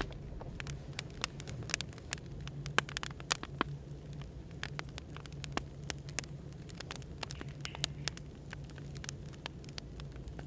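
Wood fire crackling, with irregular sharp pops and snaps, over a steady low hum of café white noise.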